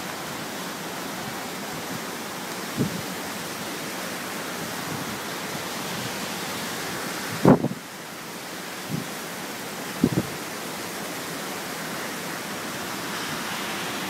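Tropical-storm wind blowing steadily over a beach, with surf, heard as an even rushing noise. A few sharp low thumps come from gusts hitting the microphone, the loudest about seven and a half seconds in.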